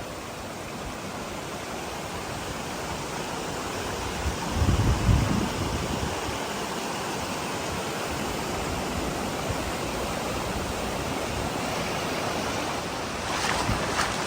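Steady rush of a mountain stream's water pouring through a rocky gorge. A brief low buffeting sound comes about four and a half seconds in, and a few sharp knocks come near the end.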